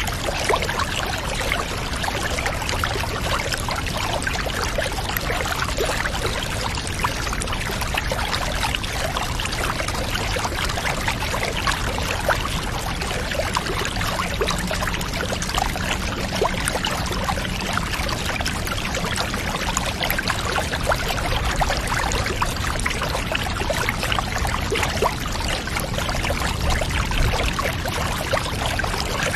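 Steady pouring, trickling water, as of bath water running, with a dense fine spatter and no breaks.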